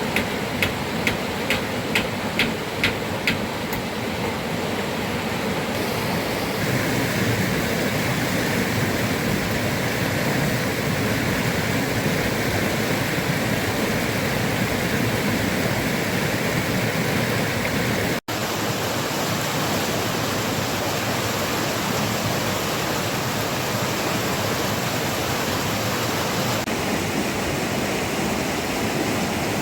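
Steady rushing water noise, like a river or heavy rain, with a row of about eight sharp, evenly spaced knocks during the first few seconds.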